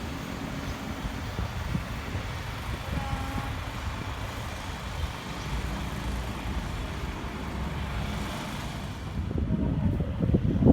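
Low, continuous rumble of a train passing through the station, with wheel knocks on the track growing louder near the end.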